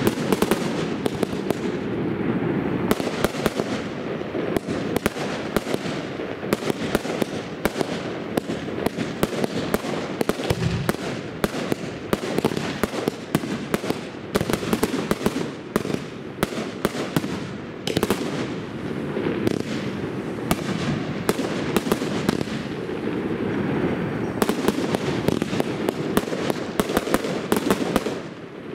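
Fireworks display in full barrage: aerial shells and effects bursting in rapid, overlapping succession, sharp bangs and crackling over a continuous rumble, easing briefly near the end.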